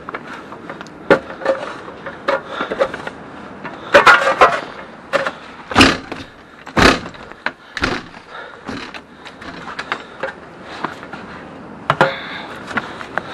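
Snow shovel working through heavy snow: the blade scrapes along the ground and knocks in irregular strokes, the longest scrapes about four, six and seven seconds in.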